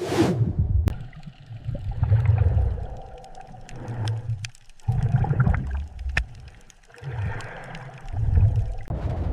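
Underwater ambience: low rumbling surges of water that come and go every second or two, with gurgling and scattered faint clicks.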